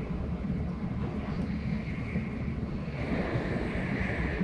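Running noise of an N700S Shinkansen heard inside the passenger cabin at speed: a steady low rumble under a rushing hiss that grows a little louder about three seconds in.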